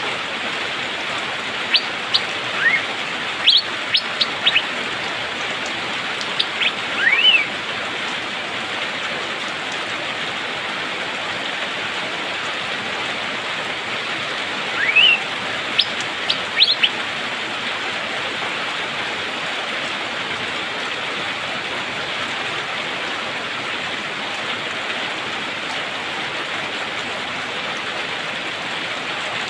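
Asian fairy-bluebird (cucak biru) giving short, sharp rising whistled calls in a few bursts, the last about halfway through, over a steady hiss of rain.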